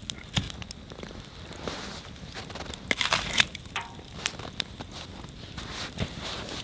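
Wood campfire burning and crackling, with irregular sharp pops and snaps over a soft hiss and a denser run of crackles about three seconds in.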